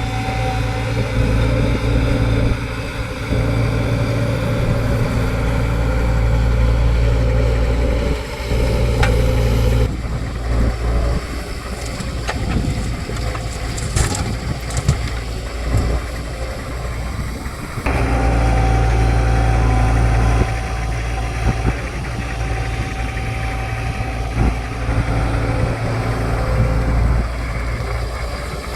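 Excavator's diesel engine running steadily with a deep hum. Its sound shifts about ten seconds in, with scattered knocks and clatter, and settles back to the steady hum about eighteen seconds in.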